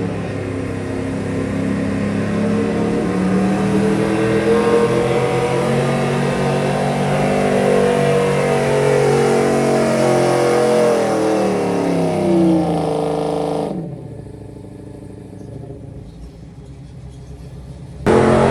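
Street stock gas pickup truck engine at full throttle pulling the sled, its pitch climbing steadily, then falling away about twelve seconds in and dropping to a low rumble about two seconds later. Loud music comes in abruptly just before the end.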